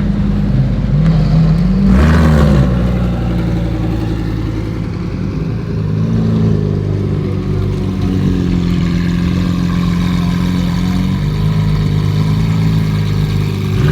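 Car engine running with a deep, steady note, revving up and back down briefly about two seconds in and more lightly around six seconds.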